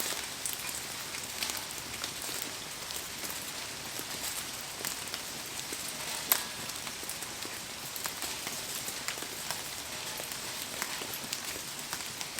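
Heavy rain falling steadily, a dense hiss dotted with small drop ticks, with one sharp snap about halfway through.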